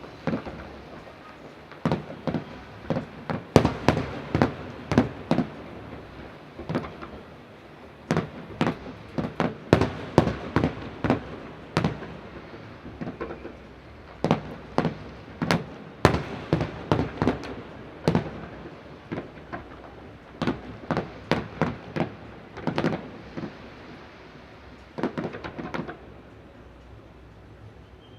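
A fireworks display: aerial shells bursting one after another, singly and in quick rapid-fire clusters, with a rumble of echo between the bangs. The bangs thin out about twenty-four seconds in and pick up again just before the end.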